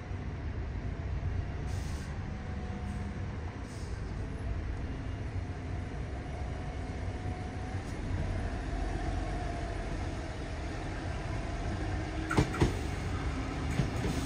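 Train running, a steady low rumble with a faint wavering whine, and two sharp clanks about twelve seconds in.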